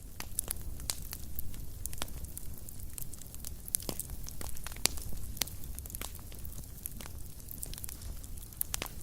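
Wood fire burning in a fireplace: irregular sharp crackles and pops over a low steady rumble of the flames, with a louder pop about five seconds in.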